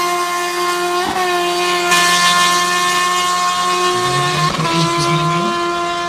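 Superbike engines held at high, steady revs, with a second, lower engine note joining about four seconds in.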